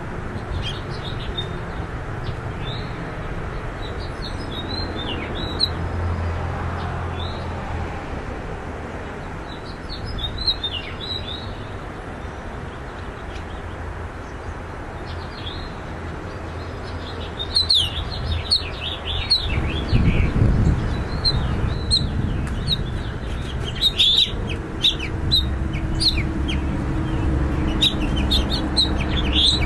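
Purple finches chirping at a nest, in short, high calls. The calls are sparse at first and come thick and fast from about two-thirds of the way in. A steady low rumble runs underneath.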